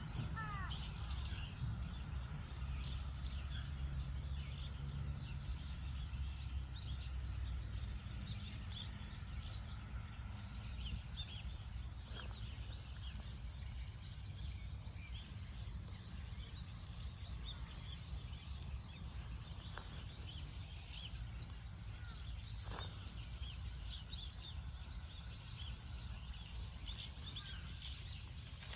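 Small birds chirping and twittering over and over, over a steady low rumble of outdoor background noise.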